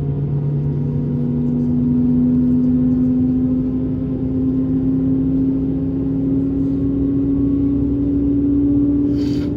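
Airbus A220-300's Pratt & Whitney PW1500G geared turbofans heard from inside the cabin: a steady engine drone whose main tone rises slowly in pitch. A brief hiss near the end.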